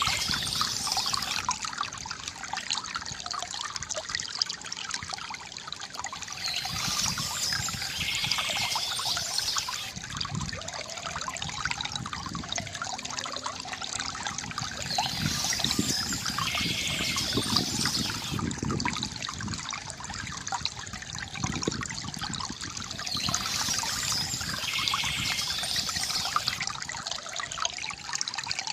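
Water trickling and gurgling from a bamboo fountain, steady and unbroken. High bird chirping comes in at intervals of about eight seconds.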